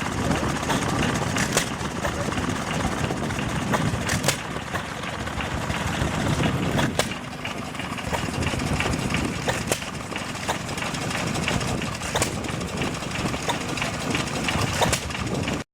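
A car engine idling, a steady uneven rumble with scattered light clicks.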